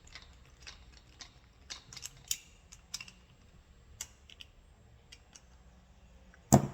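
Irregular light metallic clicks and taps of small starter motor parts being handled and fitted together by hand, with one loud knock near the end.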